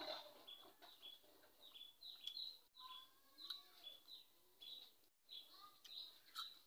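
Small birds chirping faintly, a short high chirp repeated about twice a second along with some softer gliding calls. There are a few soft clicks near the end.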